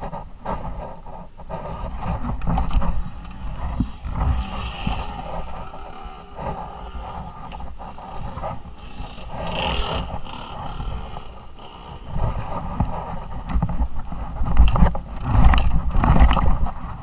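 Suzuki RM-Z 250's single-cylinder four-stroke engine revving up and down as the dirt bike is ridden, with wind buffeting the on-board microphone and frequent knocks and rattles from the bumpy track.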